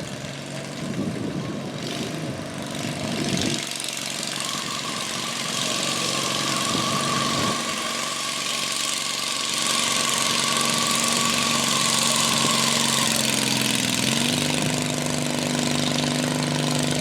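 An engine running steadily, its pitch stepping up slightly about fourteen seconds in, with a steady hiss in the middle of the stretch.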